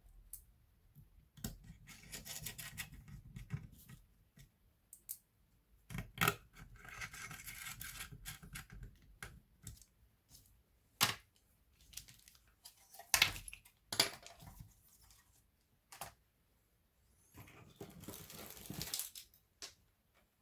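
Handling noises from hands working on a laptop: sharp clicks and taps at irregular intervals, with three stretches of scraping or rustling.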